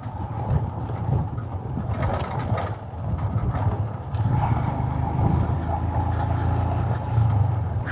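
Royal Enfield Himalayan's single-cylinder engine running under way, with wind and road noise on a helmet-mounted mic; it grows a little louder about four seconds in.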